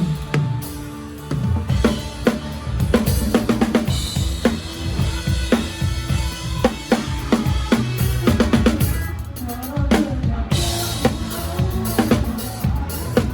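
Live drum kit played with a band: bass drum, snare and rimshot strokes in a busy pattern over a steady bass line.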